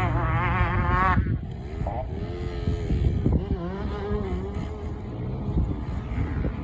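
Small dirt bike engine running, its pitch wavering quickly for about the first second, then dropping to a lower note that rises and falls with the throttle.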